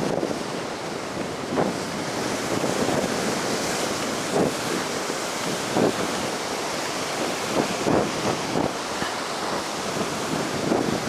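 Heavy ocean surf washing steadily on the shore, the waves running high after a typhoon, with wind buffeting the microphone. A few soft thumps stand out now and then.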